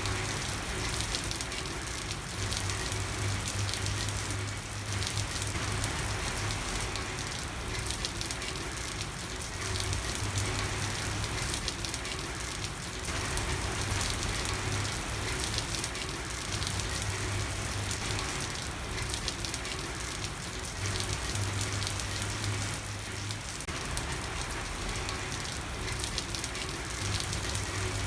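Steady rain falling and pattering on a street, an even hiss of drops with no pauses. A low hum comes and goes underneath every few seconds.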